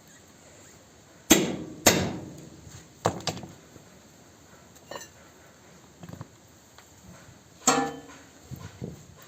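Hammer blows in a tractor-tyre puncture repair: two sharp strikes about a second in, another pair near three seconds, a few lighter knocks, and a louder blow that rings on near the end.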